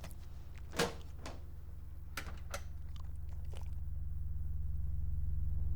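A low droning tone from the film's score, slowly swelling, with a few sharp clicks and knocks over it; the loudest knock comes about a second in.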